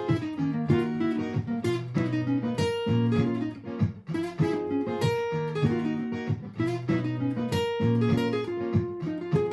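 Acoustic-electric guitar (Martin GPCPA4) playing through a looper pedal: a recorded chord pattern repeats while plucked, improvised single notes play over it.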